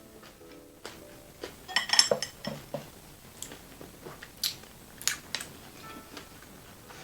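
Utensils and dishes clinking and clicking while a seafood boil is eaten: a loud cluster of ringing clinks about two seconds in, then a few separate sharp clicks, over faint background music.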